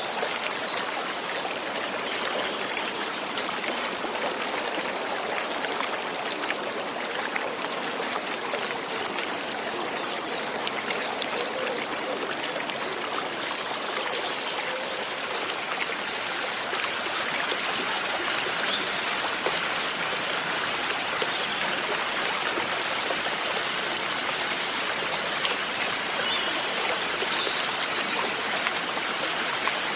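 Steady light rain, an even patter without breaks, with a few short high chirps scattered through it, mostly in the second half.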